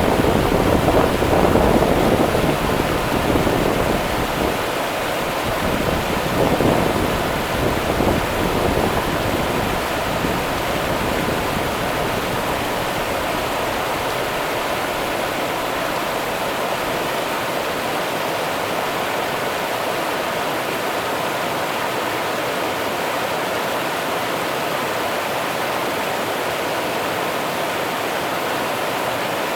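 Rio Grande river water rushing steadily, an even hiss with no distinct splashes. A low rumble under it in the first several seconds fades out.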